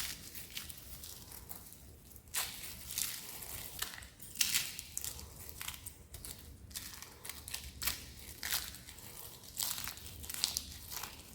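Dry, crispy soap being crushed and crumbled, giving irregular crackling crunches about once or twice a second.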